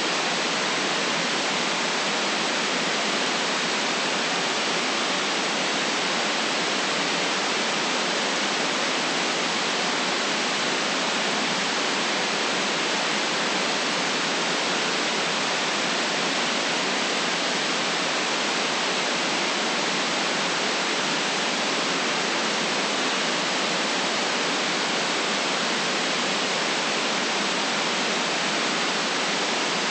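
Steady white noise: an even, unchanging hiss with no deep rumble beneath it and nothing above its upper edge.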